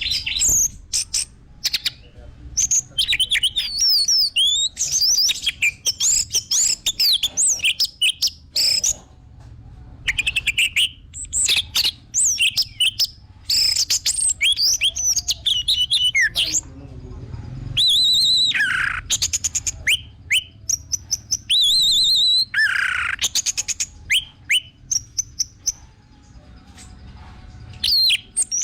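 Orange-headed thrush singing a fast, varied song of whistled phrases, slurred notes and sharp ticks, with short pauses between bursts and a quieter spell near the end.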